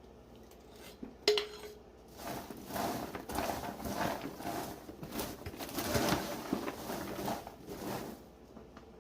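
A utensil clinks once against a pot with a short ring. Then popcorn is stirred and tossed through a butter-and-flavouring coating with the utensil, giving a stretch of irregular rustling and scraping against the container.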